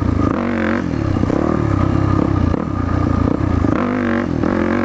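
Yamaha WR450F dirt bike's single-cylinder four-stroke engine pulling in second gear, its pitch rising and falling as the throttle is opened and eased off, with a clear rev-up about half a second in and another near the end.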